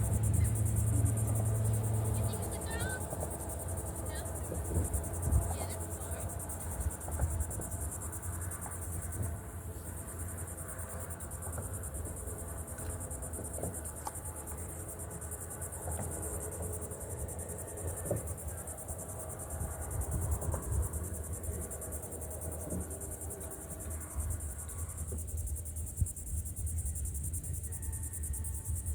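Steady, high-pitched insect chorus, with a low steady hum underneath.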